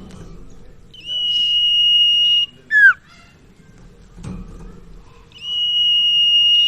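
Common iora (cipoh) singing. It gives a long, level, high whistle lasting about a second and a half, then a short note that slides down. The whistle comes again near the end. A couple of faint knocks come in between.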